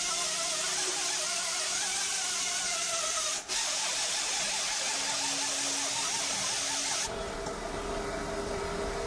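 A power tool running, a hissy grinding sound with a whine that drops in pitch over the first few seconds, briefly interrupted midway. About seven seconds in it switches abruptly to a different steady machine hum.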